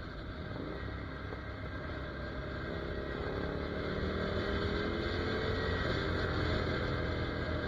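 Ducati Monster 797's air-cooled L-twin engine running as the bike is ridden, over a low rumble of wind on the microphone. The engine note comes through more clearly and a little louder from about three seconds in.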